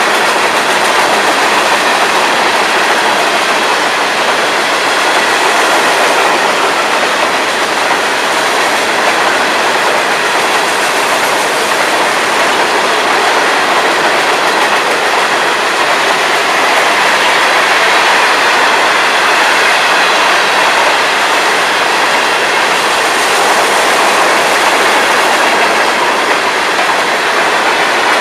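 Freight cars of a Florida East Coast freight train rolling past, a steady loud clatter and rumble of steel wheels on the rails.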